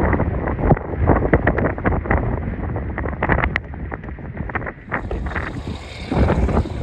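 Blizzard wind buffeting the microphone in strong gusts, with rapid crackles and pops. About five seconds in it turns thinner and hissier.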